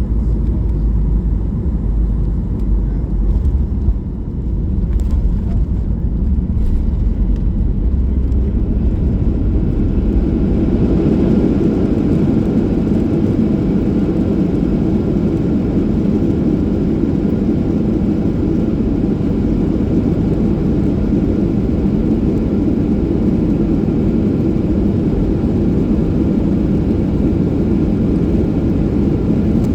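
Boeing 737-800 heard from inside the cabin during landing: a steady heavy rumble with a few short clunks early on, then a louder, fuller roar building about ten seconds in and holding steady.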